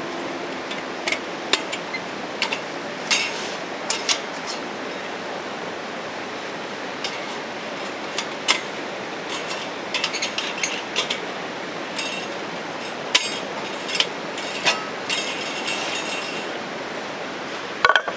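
Scattered clinks and knocks of camp cookware and utensils being handled, some with a short metallic ring, over a steady background hiss.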